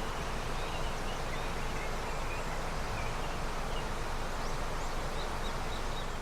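River running with snowmelt, a steady rush of water, with small birds chirping faintly over it and a quick run of short chirps near the end.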